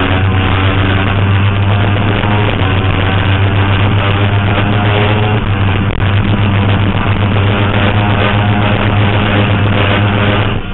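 Suzuki GSX-R 750 inline-four engine running hard under held throttle, its note staying at a nearly steady pitch, then dropping in level right at the end as the throttle comes off.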